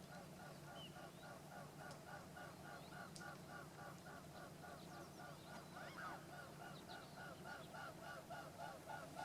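Faint, rapid run of repeated animal calls, about five a second and very even, over a low steady hum.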